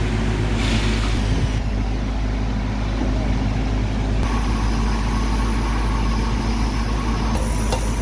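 A heavy diesel engine running steadily at an even speed, a constant low drone.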